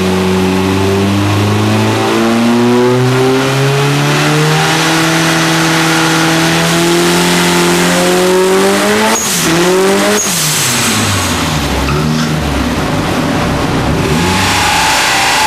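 Turbocharged 2.0-litre four-cylinder engine of a 600 hp Opel Astra on a chassis dyno, making a full-throttle pull with the revs climbing steadily for about nine seconds. About ten seconds in the throttle is cut abruptly with a short burst of noise, and the revs fall away.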